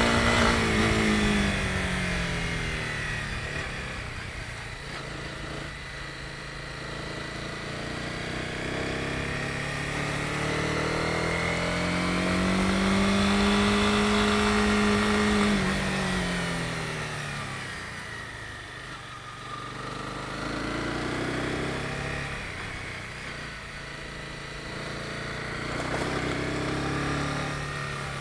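Honda CB250R's single-cylinder engine under way, with revs easing off just after the start, climbing to a held high note about halfway through, then dropping again, and rising once more near the end.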